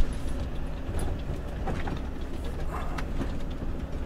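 Heavy truck's engine running steadily with a low, even hum, and a few faint clicks and rattles over it.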